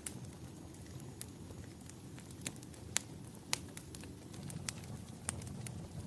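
Wood fire in a fireplace crackling: scattered sharp pops and snaps, a few loud ones near the middle, over a low steady rumble.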